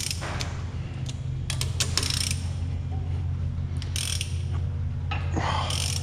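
Ratchet wrench clicking in several short spells as the cylinder-head bolts on a 5.0 Coyote V8 are worked loose, over a steady low hum.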